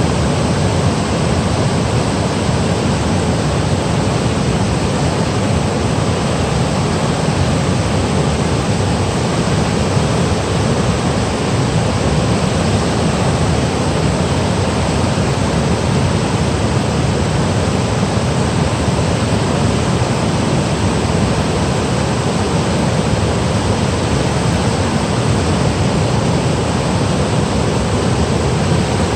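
Mountain valley stream cascading over rocks: a loud, steady rush of water.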